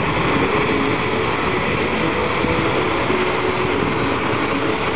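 Jet aircraft engine noise: a steady rush that neither rises nor falls.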